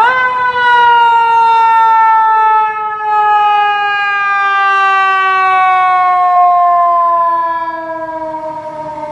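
Fire truck siren winding up sharply, then one long tone slowly falling in pitch as it winds down.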